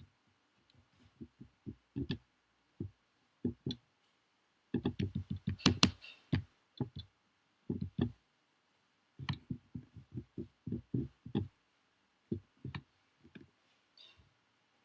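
Computer keyboard typing in irregular bursts of keystrokes, with pauses between the bursts.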